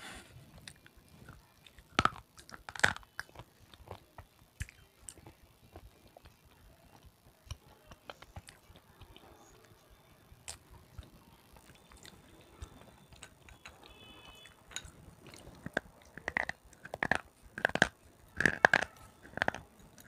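Close-miked biting and crunchy chewing of red sileti: two sharp crunches a couple of seconds in, quieter chewing through the middle, then a run of louder crunches near the end.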